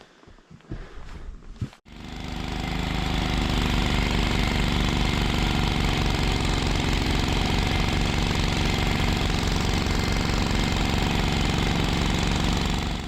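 A small engine running steadily at close range with an even, fast pulsing beat. It begins abruptly about two seconds in, after a few faint knocks.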